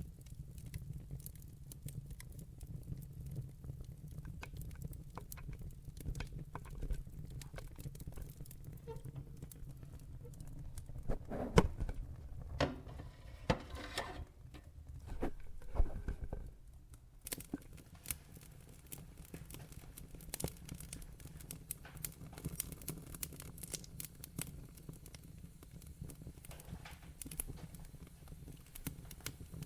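Fireplace fire crackling: scattered pops and snaps over a low steady rumble, with a run of louder pops about halfway through.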